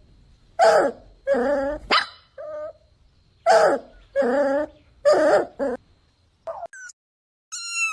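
Puppies barking and yipping in short, pitched barks, about eight of them in quick succession. A few high, falling squeaks follow near the end.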